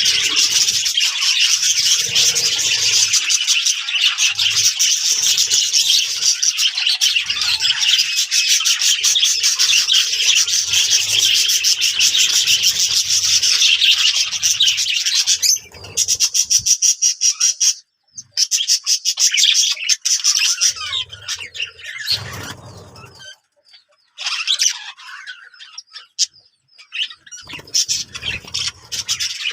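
Budgerigars chattering and warbling in a dense, rapid stream of high chirps. About halfway through the calls thin out into scattered bursts with brief pauses.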